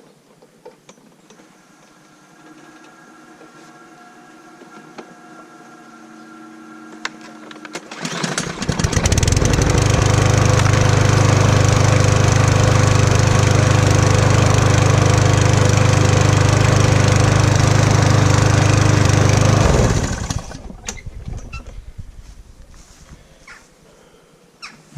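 Old Mountfield rotary lawn mower's petrol engine starting up about eight seconds in, running at a steady speed for about twelve seconds, then cutting out abruptly.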